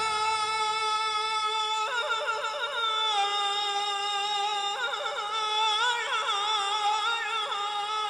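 Solo voice singing long held notes of an Iraqi devotional song, breaking into short wavering melismatic runs about 2, 5 and 6 seconds in.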